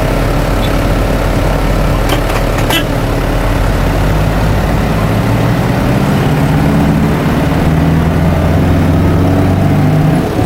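Tour vehicle's engine running as it drives, a steady drone that grows stronger in the second half. A few faint clicks come about two seconds in.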